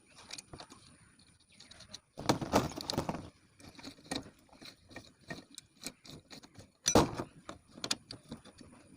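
Metal parts and hand tools being handled: irregular clinking and rattling, with a louder noisy stretch about two seconds in lasting just over a second, and a shorter, sharper burst about seven seconds in.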